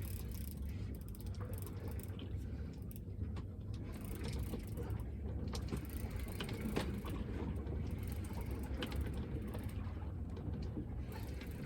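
Fishing reel being wound to bring in a hooked fish, its gears whirring with scattered faint clicks, over a steady low rumble.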